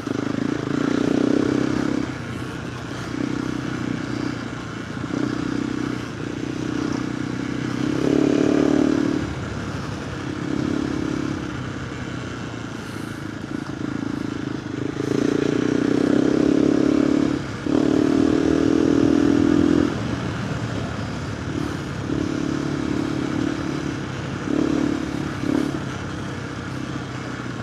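KTM 390 Adventure R's single-cylinder engine through a Norifumi Whoops slip-on exhaust under way. The exhaust note swells with repeated bursts of throttle, each lasting a second or two, and drops back between them.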